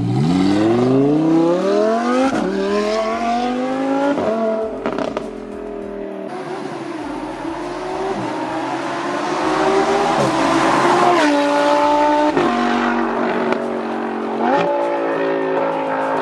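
Lamborghini Huracán Spyder's 5.2-litre V10 through a Fi valvetronic catback exhaust, accelerating hard: the pitch climbs steeply and drops at quick gearshifts, then runs steadier with two more drops and a step back up near the end.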